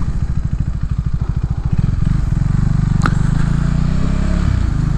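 Motorcycle engine running at low speed. Its separate firing pulses smooth into a steady hum about two seconds in. A single sharp click comes about three seconds in.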